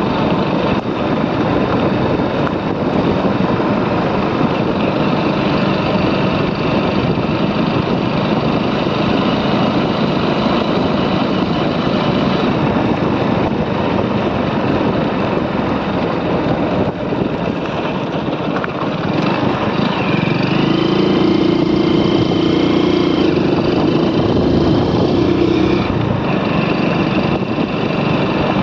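Motorcycle riding along a road, its engine running steadily under heavy wind and road noise. About twenty seconds in, a higher steady tone joins for about five seconds, then drops away.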